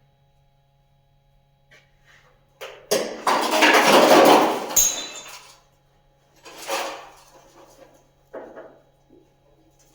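Metal clattering and knocking: a loud clatter lasting about two seconds, starting about three seconds in, then two shorter knocks.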